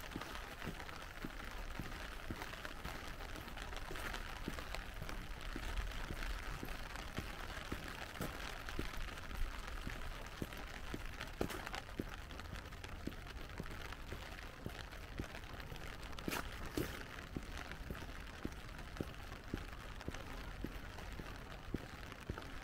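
Light rain falling: a steady hiss with many small, irregular drip ticks and a few sharper ones.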